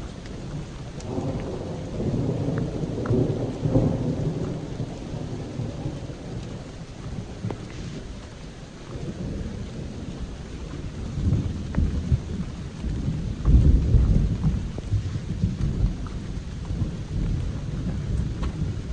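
Heavy rain pouring down while thunder rolls in long low rumbles, once early on the way and again more loudly past the middle.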